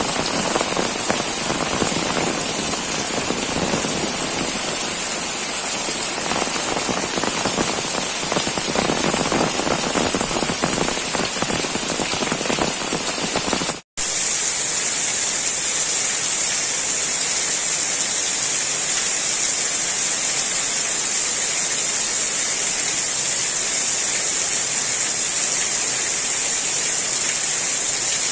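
Heavy rain falling steadily, a dense mass of drop impacts on surfaces. About halfway through it cuts out for an instant and comes back as a smoother, more even hiss.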